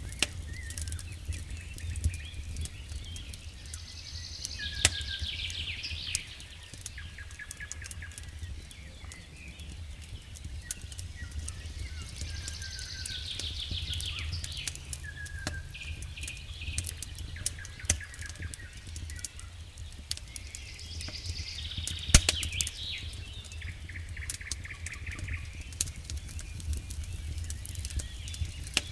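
Wood campfire crackling with frequent small snaps and a few sharp pops, while a songbird sings a short repeated phrase three times. A steady low rumble lies underneath.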